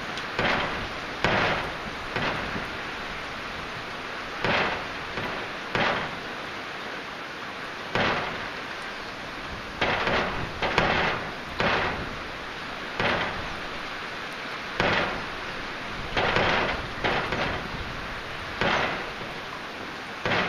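Heavy rain falling with a steady hiss, broken irregularly every second or so by short, louder splashing bursts.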